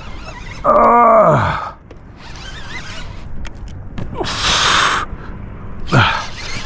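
A person's voice groaning, sliding down in pitch, about a second in and again near the end, with a short burst of hissing noise between.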